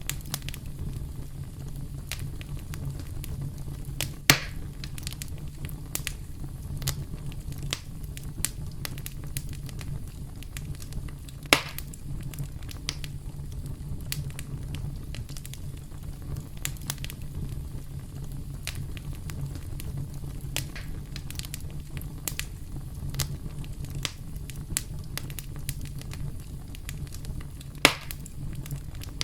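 Campfire crackling, with frequent small snaps over a steady low rumble of burning wood. Three louder pops stand out: about four seconds in, near twelve seconds, and near the end.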